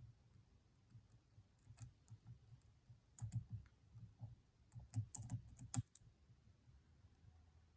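Faint, irregular small metallic clicks and ticks of a lock pick and tension wrench working the pins of a Stanley padlock, bunched about three to six seconds in.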